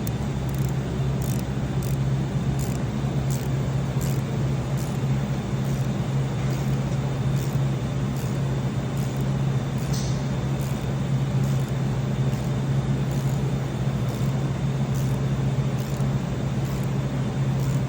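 A steady low machine hum, even in level, with faint light clicks about once a second.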